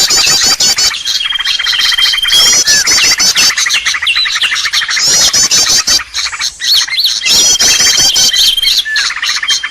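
Bird-lure recording of small birds: a dense mix of fast, repeated high chirps, trills and short held whistles. The sequence repeats about every five and a half seconds, as a looped lure track does.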